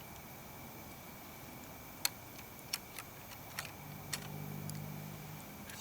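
A handful of sharp, scattered clicks or snaps, the loudest about two seconds in, over a faint steady background with a low hum rising in the second half.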